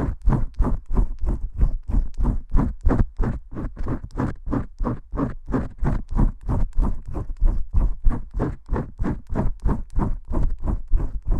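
Fingers vigorously scrubbing shampoo lather, a fast, even rhythm of rubbing strokes at about four to five a second.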